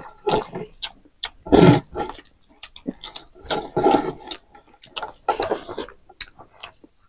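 Close-miked eating sounds of two people eating rice and maize by hand: wet chewing, lip smacks and mouth clicks in irregular bursts.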